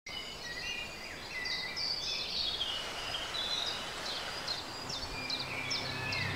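Several birds singing: clear whistled notes, then short chirps that drop in pitch, repeated in quick succession over a steady hiss. Low sustained music tones come in about five seconds in.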